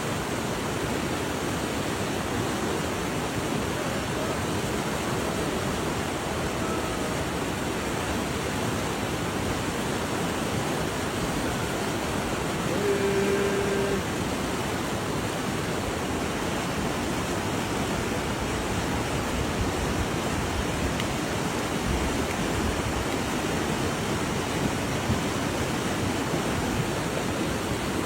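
River water rushing steadily. About halfway through, a short steady tone sounds for about a second.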